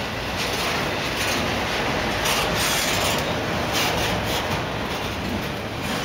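Loaded autorack freight cars rolling past: a steady rumble of steel wheels on rail, with a few brief hissing, scraping surges about two and four seconds in.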